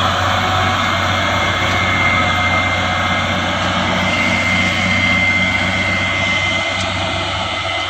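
Truck engine running steadily and loud, with a high steady whine over the low drone that grows stronger about halfway through.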